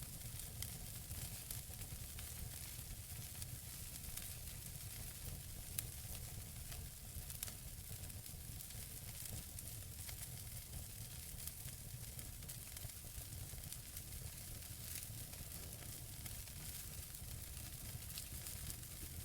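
Wood fire burning in a fireplace: a steady hiss with many small crackles from the burning logs over a low rumble, and a couple of sharper pops about six and seven seconds in.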